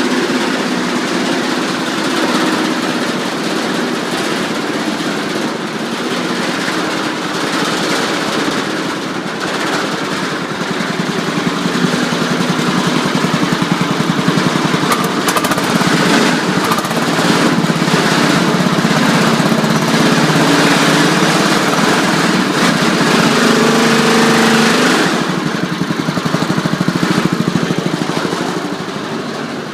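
Engine of a soil shaker screen running steadily. It grows louder about twelve seconds in and eases back a few seconds before the end.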